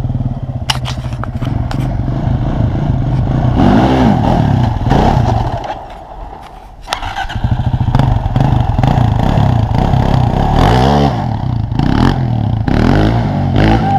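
Small dirt bike engine running in first gear, revved up and eased off several times as a rider tries to pop a wheelie, with a brief drop to a lower idle about six seconds in. A few sharp clicks sound in the first two seconds.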